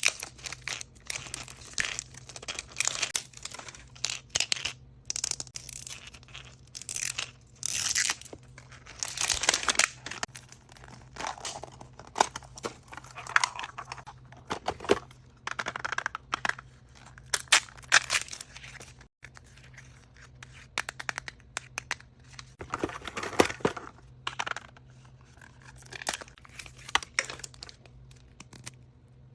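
Wrapping of surprise toys being torn open and crinkled by hand, in irregular rustling and tearing bursts with short pauses between.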